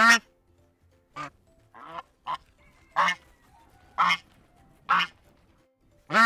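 Goose honking: a run of about eight short, loud honks at irregular intervals, roughly one a second.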